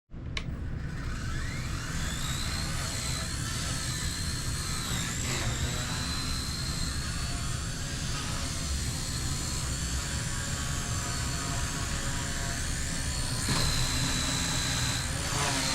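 XK K110S micro electric RC helicopter spooling up about a second in, then a steady high motor whine over the whoosh of the rotor. The whine wavers as the throttle is worked and dips briefly twice, once about five seconds in and once near the end.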